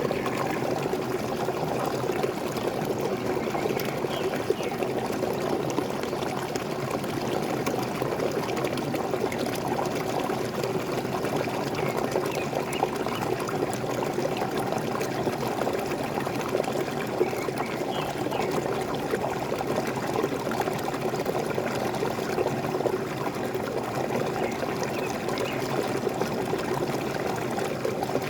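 Waterfall: falling water splashing and rushing steadily, without a break.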